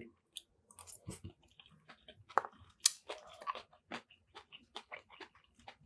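A person chewing a mouthful of pepper shrimp fried rice close to the microphone: quiet mouth sounds and small clicks at irregular intervals.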